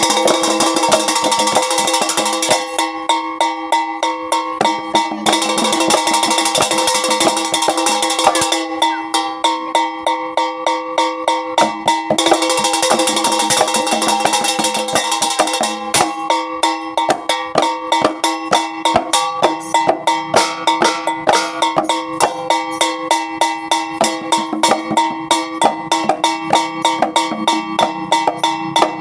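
Javanese jaranan ensemble music for a dance: drum and percussion strokes about twice a second over sustained pitched tones, with three stretches of bright, noisy shimmering in the first half.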